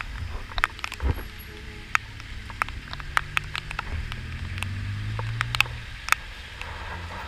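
Raindrops ticking irregularly on the camera housing, over the low hum of a vehicle engine that swells in the middle and then fades.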